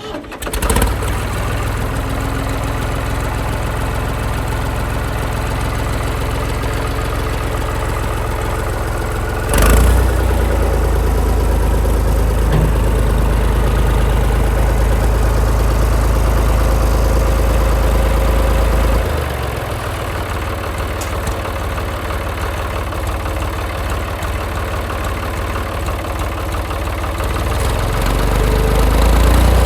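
Ford 3930 tractor's three-cylinder diesel engine starting up and then running steadily. About ten seconds in there is a sharp clunk and the engine grows louder and heavier. It drops back near the twenty-second mark and picks up again near the end.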